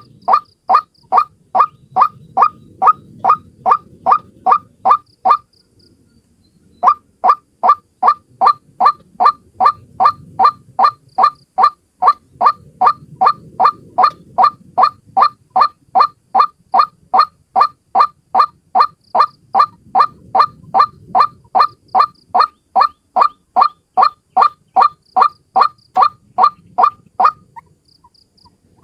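White-breasted waterhen (ruak-ruak) calling: one bird repeating a short pitched note about three times a second. The calls pause briefly near the start and stop shortly before the end.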